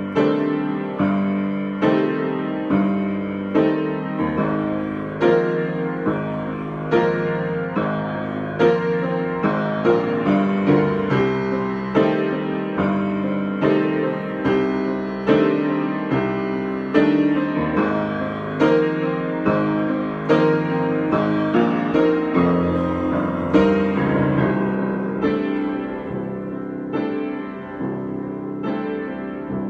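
Solo piano improvisation: a steady flow of struck chords and single notes that ring and fade, easing a little softer near the end.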